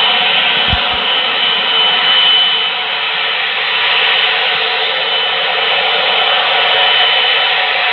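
Boeing 777F's GE90 turbofan engines running at high power, a loud steady jet noise with a thin, steady high whine over it.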